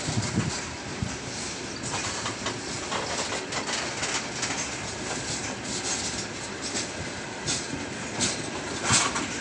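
Heavy freight train's open-top gondola wagons rolling past close by as the train gathers speed: a steady rolling rumble and hiss, with wheels clicking over the rail joints in irregular clusters, loudest about nine seconds in.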